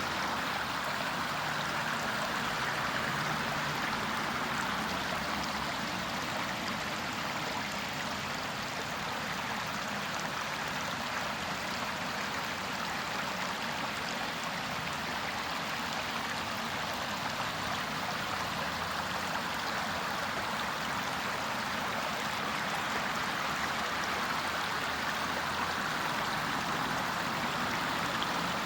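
Rainwater flooding a street, running in a steady stream-like flow.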